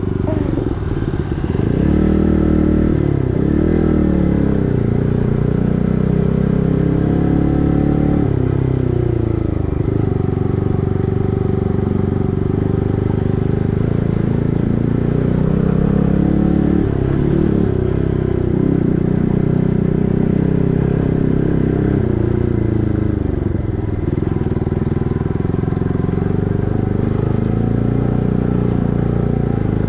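Yamaha MT-15's 155 cc single-cylinder engine breathing through an SC Project full-system exhaust while riding, the revs climbing and dropping again and again as the bike accelerates and slows.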